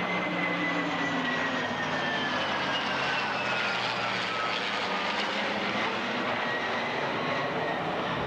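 Jet aircraft engine roar as the aircraft passes the crowd, a steady rush with a whine that falls slowly in pitch.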